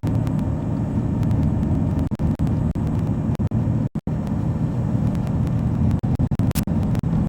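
Truck engine droning steadily under way, with road noise, heard from inside the cab. The audio cuts out briefly a few times.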